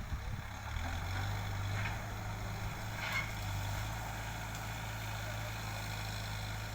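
Diesel engine of a backhoe loader running steadily, a low even hum.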